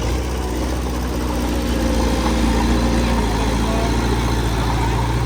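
Heavy-equipment diesel engine running steadily with a low hum, getting slightly louder about two seconds in.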